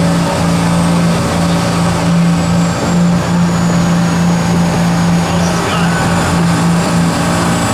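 Pulling truck's engine held at full RPM, a loud steady drone at one pitch, as it drags the weight sled down the track.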